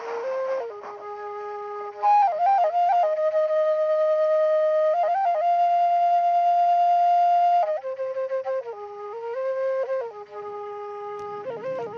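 Background flute music: a slow melody of short notes with one long held note in the middle.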